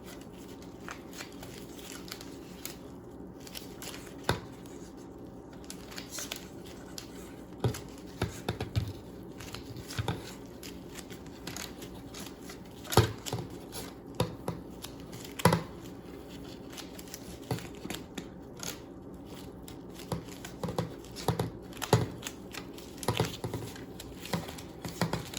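Hands wrapping a wet fiberglass repair cast around a fishing pole: scattered crinkles, rustles and light taps at irregular moments over a steady low hum.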